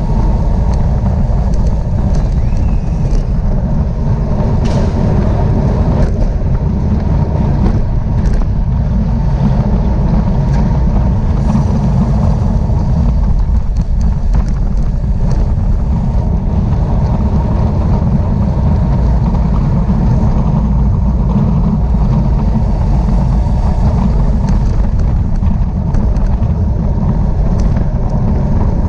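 Steady heavy wind buffeting on the microphone, a low rushing rumble, with light road noise and a few faint ticks.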